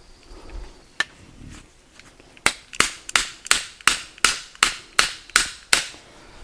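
A single sharp knock, then a run of ten quick, sharp hammer strikes at about three a second.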